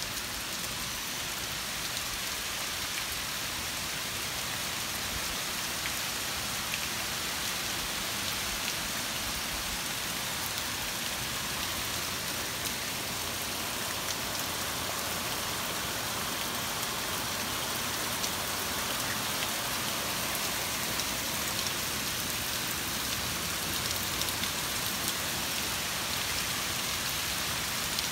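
Heavy rain falling steadily, a dense even hiss with scattered small drop ticks.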